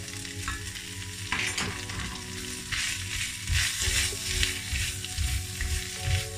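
Chicken strips and freshly added sliced onion sizzling in hot oil in a wok, stirred and scraped with two wooden spatulas that knock against the pan. The sizzle grows louder from about three seconds in.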